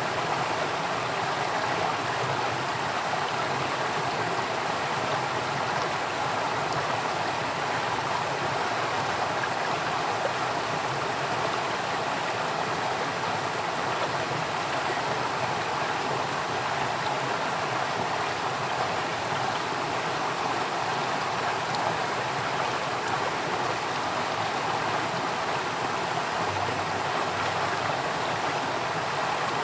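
Flowing water, a steady even rush that holds the same level throughout.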